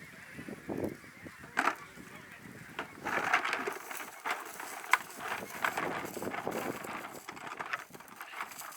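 A large flock of snow and Ross's geese calling, a dense chorus of many short, overlapping honks that builds after the first second or so, with a few low knocks and rustles at the start.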